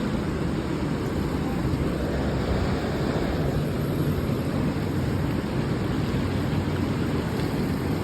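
Steady rushing noise of wind buffeting the microphone, with a rough low rumble.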